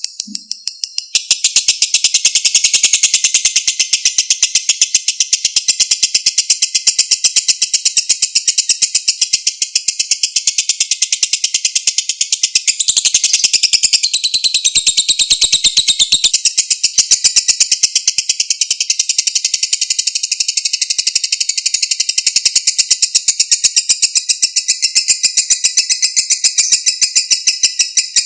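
Lovebird singing its long 'ngekek': a rapid, high chattering trill that starts about a second in and carries on without a break.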